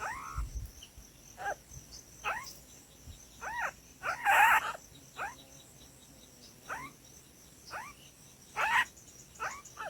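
A bird calling over and over: short chirps that slide down in pitch, roughly one a second at uneven spacing, with one louder, harsher call about four seconds in.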